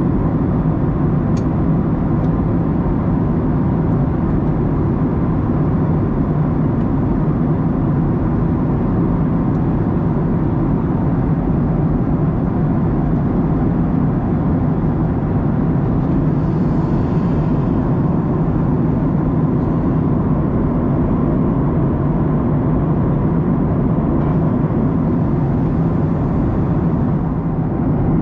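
Steady cabin noise of a Boeing 737-900ER in cruise: the CFM56-7B engines and the airflow along the fuselage, a deep even roar with a faint steady hum. A brief faint hiss rises over it a little past halfway.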